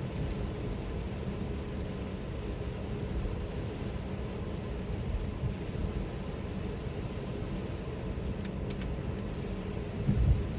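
Steady low road and tyre noise inside a Tesla's cabin as it drives on a wet road, with a brief low thump near the end.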